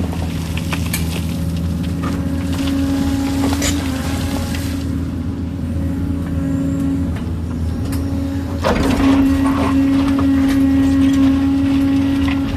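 Kobelco excavator's diesel engine running steadily with a low drone, with scattered knocks and clanks. It grows louder and rougher about two-thirds of the way through.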